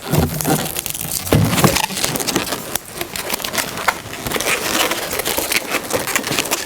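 Latex twisting balloons rubbing and squeaking against each other as they are handled and wrapped, a dense crackling rub with a couple of short low squeaks in the first two seconds.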